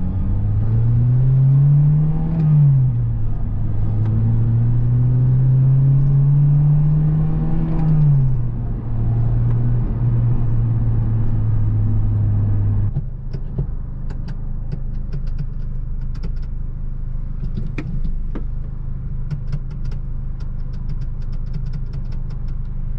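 The 2002 Acura RSX Type-S's four-cylinder engine, heard from inside the cabin, pulling up through the gears: the revs rise and drop at an upshift about two seconds in, rise again and drop at a second upshift about eight seconds in, then hold steady. About halfway through, the engine settles into a lower, even drone with a run of sharp clicks and rattles, a noise the driver can't place and finds off-putting.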